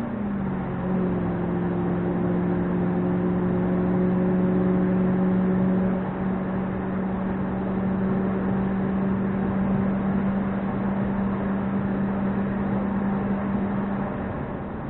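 Audi RS5's 4.2-litre V8 heard from inside the cabin through a valved JH Motorsports 2.75-inch cat-back exhaust, droning steadily under road and tyre noise. Its pitch drops in the first second as the gearbox shifts up, then holds steady at cruising speed.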